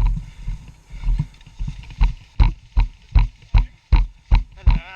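Heavy, rhythmic panting of a player out of breath from running, about two and a half breaths a second.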